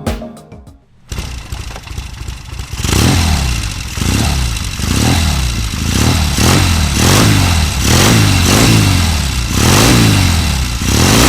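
1972 Norton 750 Commando's air-cooled parallel-twin engine, idling when it comes in about a second in, then blipped again and again, rising in pitch and dropping back about once a second.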